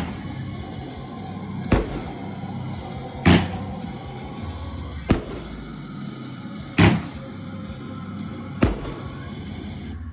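Fireworks going off in a steady sequence: five sharp bangs, roughly one every second and a half to two seconds, over continuous background music.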